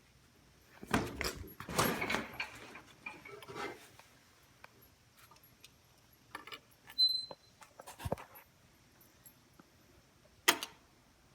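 Keys jangling and rattling with a few clicks and knocks, a short high beep about seven seconds in, and a sharp click near the end; no engine is running.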